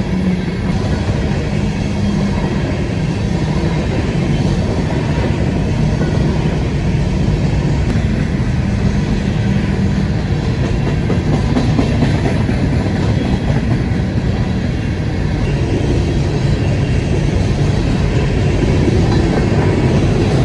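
Empty coal train's cars rolling past, a steady loud rumble of wheels on rail.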